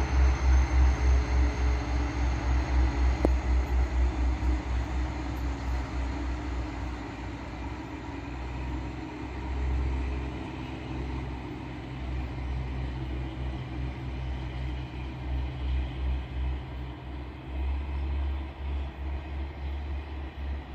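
Electric passenger train pulling away along the track, its low, pulsing running rumble loudest at first and fading over the first several seconds as it moves off into the distance.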